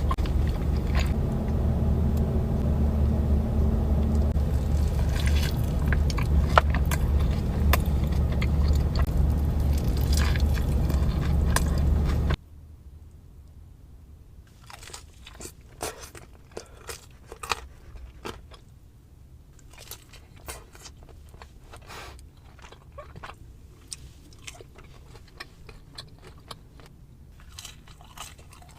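Close-miked eating of a Raising Cane's meal: crunchy bites and wet chewing of fried chicken fingers and fries, with no talking. For the first twelve seconds a loud steady low rumble sits under the chewing. Then the sound cuts suddenly to a quieter background, where the crisp bites and crunches stand out.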